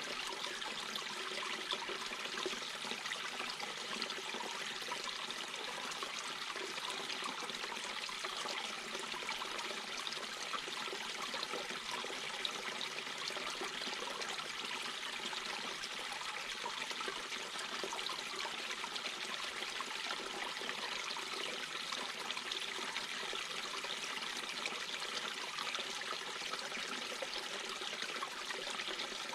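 Small mountain brook babbling and trickling over stones in a steady, unbroken flow.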